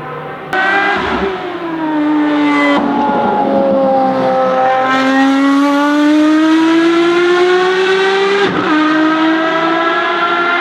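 Ferrari FXX Evoluzione's V12 at high revs on track. The note jumps in loudness about half a second in and falls in pitch for a couple of seconds. It then climbs steadily for several seconds as the car accelerates, with a sharp drop near the end at an upshift.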